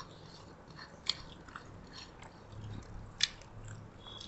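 Close-up eating sounds from people eating meat and rice with their hands: chewing and wet mouth clicks, with two sharp smacks, one about a second in and one just past three seconds.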